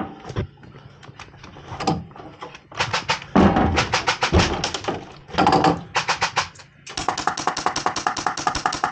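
Airsoft guns firing in rapid full-auto bursts of sharp clacks, several short bursts and then a longer, steady burst near the end.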